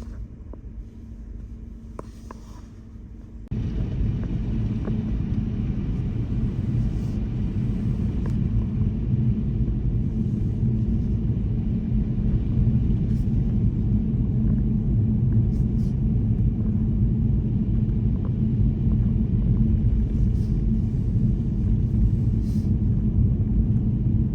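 Car driving on snowy streets: a steady low rumble of engine and tyres, quieter at first, then jumping abruptly louder about three and a half seconds in and holding steady.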